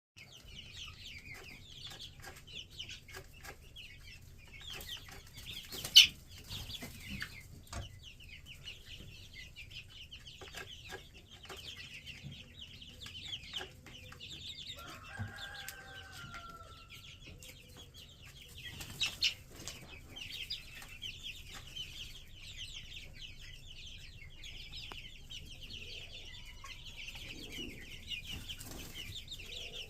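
Silkie chicks peeping continuously in many fast, high overlapping cheeps, with one lower, longer call about halfway through. A sharp knock about six seconds in and two smaller ones later.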